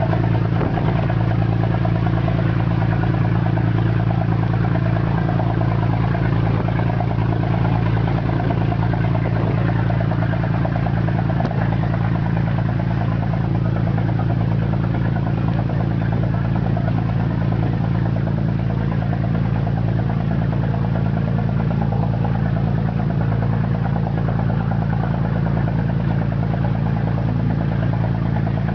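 A boat's engine running steadily at constant speed, a low unbroken drone with no change in pitch.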